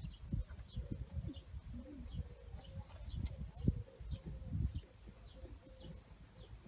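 A small bird chirping over and over, short high chirps about two a second, over low, uneven thudding and rumble.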